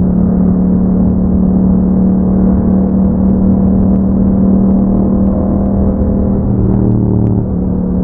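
2021 Yamaha MT-07's parallel-twin engine through an Akrapovic exhaust with a dB killer, running at a steady cruising note. About seven seconds in the note changes briefly and the sound dips slightly before settling back.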